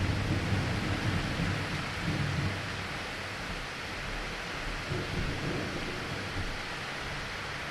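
Steady rain falling during a thunderstorm, with a low thunder rumble that dies away after about two and a half seconds.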